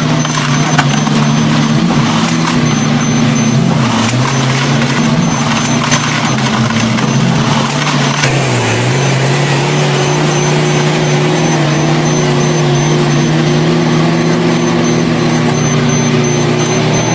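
Diesel engines of heavy earthmoving machinery running under load, their pitch rising and falling as they work, then holding steadier in the second half. A faint high beep repeats at an even pace throughout.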